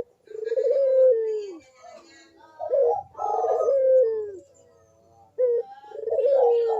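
Barbary dove (burung puter) cooing its "kuk-deruk" call in three phrases, each drooping in pitch at the end.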